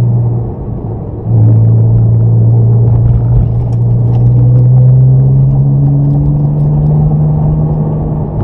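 Sports car engine heard from inside the cabin as it is driven round a track: the engine note drops away for under a second about half a second in, then comes back and pulls steadily, its pitch rising slowly as the car gathers speed.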